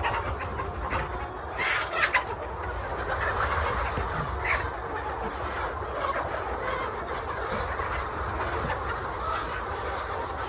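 A flock of poultry clucking and calling over a steady low rumble, with a few sharper calls standing out about two seconds and four and a half seconds in.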